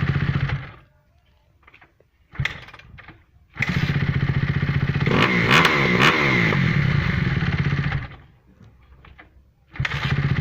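Kawasaki 250 cc motorcycle engine running, then cutting out just under a second in. It catches briefly at about two and a half seconds, starts and runs with the revs rising and falling in the middle, dies again around eight seconds, and starts up once more near the end.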